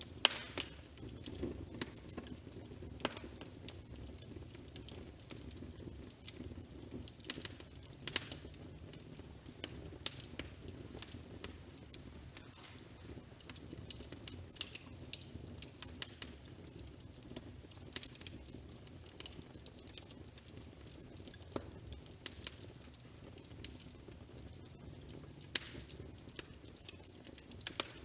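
Fireplace crackling: irregular sharp pops and snaps of burning wood over a low steady rumble of the fire.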